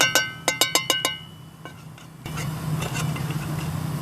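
A quick run of about eight ringing metallic clinks in the first second or so, the same object struck again and again, as with a utensil knocking a metal bowl or pot. About two seconds in, a steady low rumble starts.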